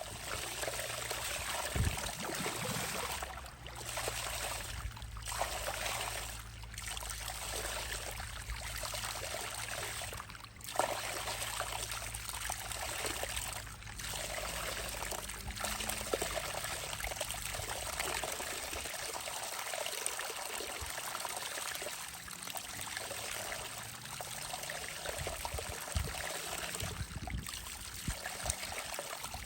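Hot spring water trickling and running steadily. A low steady hum sits underneath and fades out a little past the middle.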